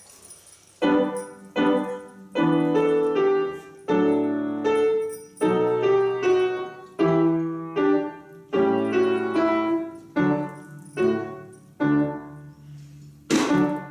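Piano playing a polka in an even, bouncy rhythm of notes and chords. Near the end, sharp percussion hits come in on top.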